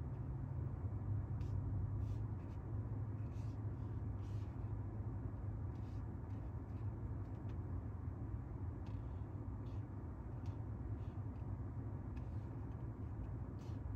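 Maserati Ghibli Trofeo's 3.8-litre twin-turbo V8 running steadily with a low, even rumble and no revving.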